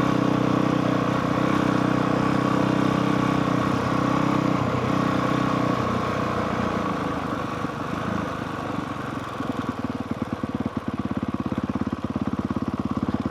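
Honda CRF450R single-cylinder four-stroke dirt bike engine running steadily under way. About eight seconds in, the revs drop and the note breaks into a slower, uneven putter of separate firing pulses.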